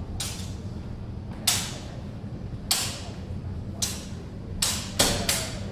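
Steel longsword blades clashing: about seven sharp metallic strikes at uneven intervals, each ringing briefly, with a quick run of three near the end.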